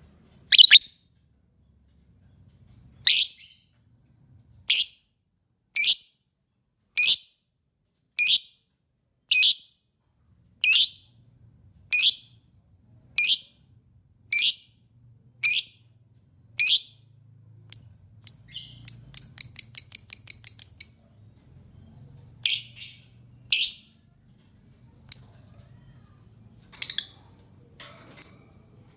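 Lovebird calls used as a bird-lure sound: loud, shrill chirps repeated about once every second, a fast chattering trill a little past the middle, then a few more single chirps.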